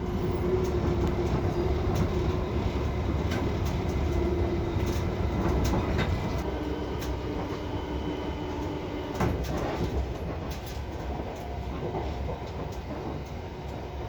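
Passenger train running along the track, heard from inside the carriage: a steady low rumble with a faint hum and scattered clicks from the rails.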